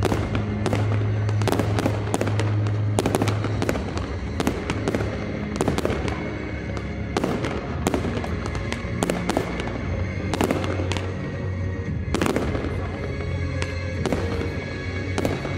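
Fireworks display: a rapid, irregular run of sharp bangs and crackles, several a second, over steady music played through a sound system.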